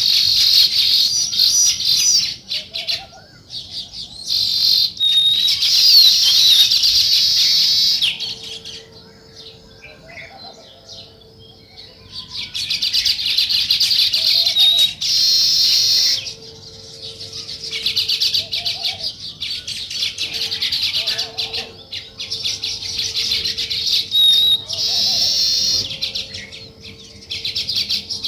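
Sparrows chirping in dense bouts of several seconds each, with a quieter lull about a third of the way through.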